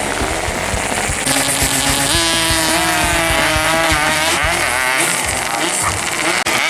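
Several two-stroke 135cc road-race motorcycles running hard, their overlapping engine notes rising and falling as they rev and shift.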